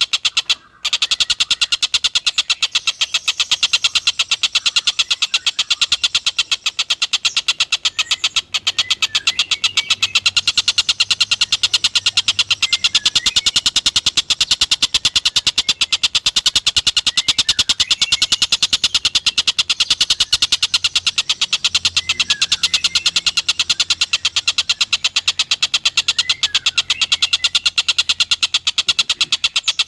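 Tengkek buto kingfisher's call: a very fast, continuous rattling trill of rapid-fire high notes that runs on without a break, except for a brief gap about a second in.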